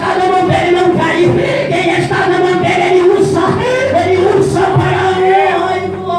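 Music with a group of voices singing together, like a church congregation or choir, over steady held notes; a low bass note comes in about two-thirds of the way through.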